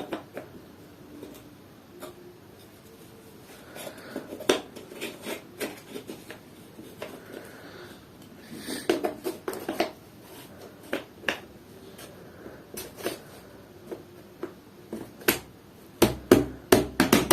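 Scattered light clicks and taps of small objects being handled and set down on a hard surface, irregular and close together near the end.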